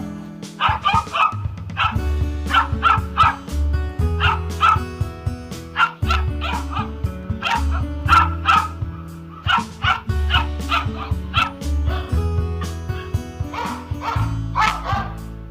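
A dog barking in quick runs of several sharp barks, over background music with sustained low notes.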